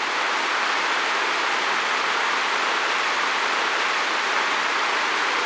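Creek water running steadily over stones, an even rushing sound.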